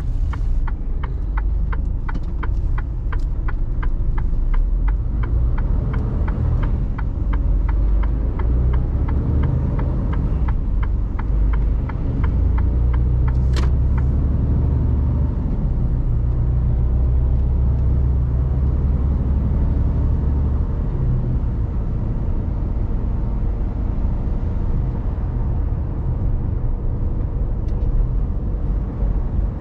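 Mercedes Actros truck's diesel engine rumbling steadily in the cab while driving, heaviest about halfway through. Over the first several seconds a turn-signal indicator ticks about two and a half times a second, and a single sharp click comes about halfway through.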